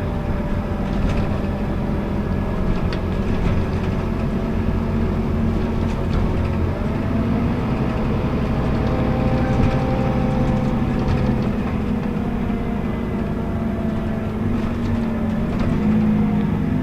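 Scania K280UB city bus heard from inside the cabin while under way: a steady diesel engine drone and road rumble, with a fainter whine that rises and then falls in pitch through the middle.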